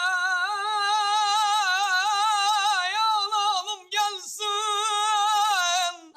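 A man singing unaccompanied in a high voice, holding long notes with wavering, ornamented turns. He pauses briefly for a breath about four seconds in, then takes up the held note again.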